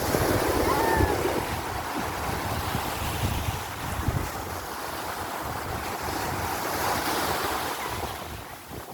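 Sea waves breaking and washing up a beach, with wind buffeting the microphone.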